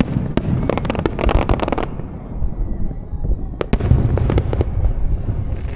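Aerial fireworks going off: sharp bangs with dense crackling, one volley about a second in and another near four seconds, over a low rumble.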